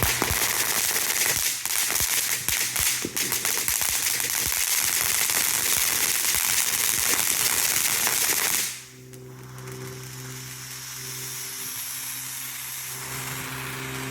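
A firework going off in a dense run of rapid crackling pops and hiss for about nine seconds, then cutting off abruptly. A steady low hum is left underneath.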